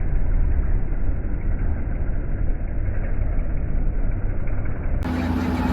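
Truck engine running with a deep, muffled rumble. About five seconds in, the sound cuts abruptly to a clearer recording of an engine with a steady hum.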